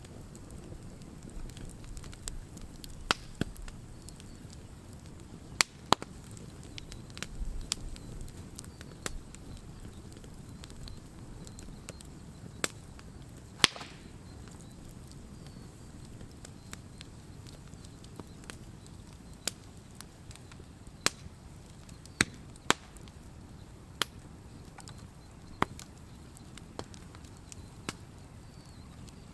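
Wood campfire burning, with sharp pops and cracks of the firewood at irregular intervals, one every second or two, over a steady low rush of the flames.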